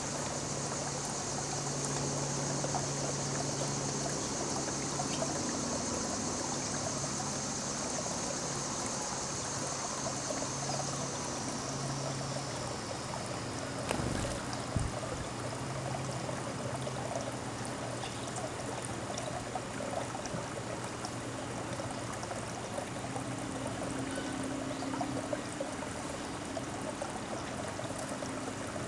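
Steady trickle of running water, with a faint low hum beneath it and a brief knock about fourteen seconds in.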